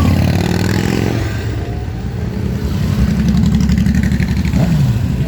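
Motorcycle engines running at parade pace, with one engine revving down and back up shortly before the end.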